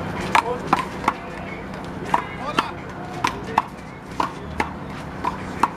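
Rubber handball (the big blue ball) in a one-wall handball rally, slapped by hands and smacking off the wall and court: a string of sharp smacks, about two a second, unevenly spaced.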